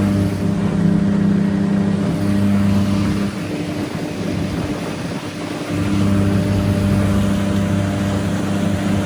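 1964 Evinrude 9.5 hp two-cylinder two-stroke outboard running steadily at speed, pushing the boat; the hum dips and grows quieter for a couple of seconds about halfway through, then comes back. It is running the way it's supposed to run, its fuel filter freshly cleaned.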